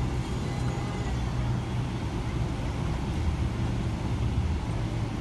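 Steady low rumble of a Boeing 777 airliner's jet engines, holding an even level without rising or falling.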